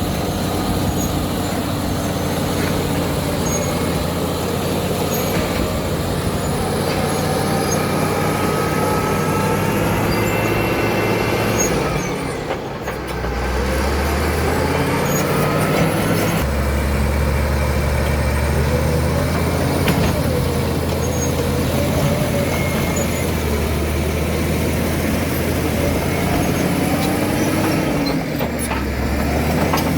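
Caterpillar D7 bulldozer's diesel engine running hard while working, its pitch rising and falling with the load. There is a brief lull about twelve seconds in and again near the end.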